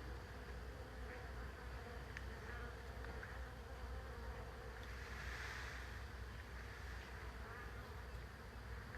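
A swarm of honeybees buzzing, a steady hum of many bees, with a brief louder rush of noise about five seconds in.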